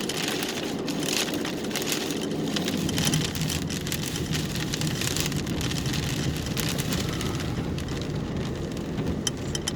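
Rain hitting a car, many small drop impacts over steady road noise, with a low rumble that builds from about three seconds in.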